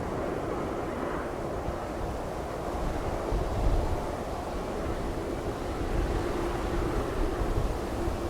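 Strong gusty wind rushing and buffeting the microphone, over a steady distant rumble of jet aircraft engines.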